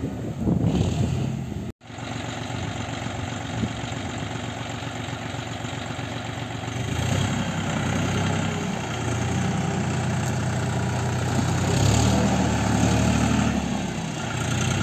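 John Deere 5045D tractor's three-cylinder diesel engine running steadily. The sound cuts abruptly about two seconds in, and the engine note gets louder and heavier twice: around the middle and again near the end.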